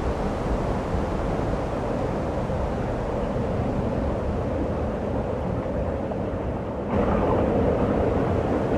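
Blizzard wind blowing steadily, a low rushing noise that jumps suddenly louder about seven seconds in.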